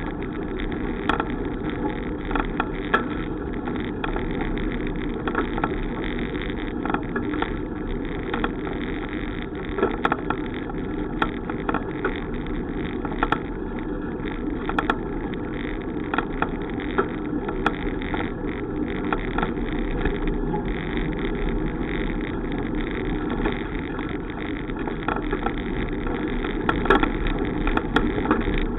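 Steady wind and road noise while riding a bicycle, with many small clicks and knocks scattered throughout.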